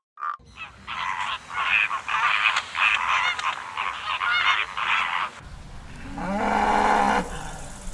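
A flock of flamingos honking, many goose-like calls overlapping for about five seconds. After that a cow moos once, a long low call, near the end.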